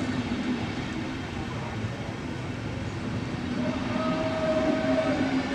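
Passenger train rolling along the platform, a steady rail noise, with a steady tone joining a little past halfway.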